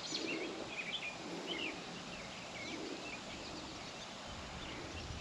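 Birds chirping over outdoor ambience: short, scattered chirps, most of them in the first three seconds and a few more near the end.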